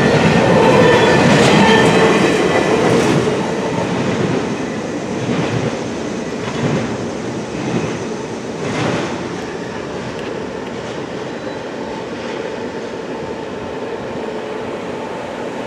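Double-stack container cars of a freight train rolling past, with wheels clacking over the rails. It is loud at first, then fades to a steadier, quieter rumble a few seconds in as the last cars go by.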